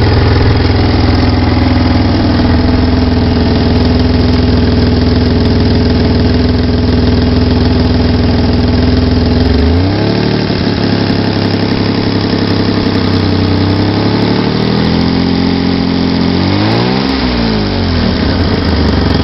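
BMW E34 535i straight-six engine idling, then revved up about halfway through and held for a few seconds before settling back, with one more short rev near the end. The owner suspects an exhaust leak between the exhaust manifold and the catalytic converter.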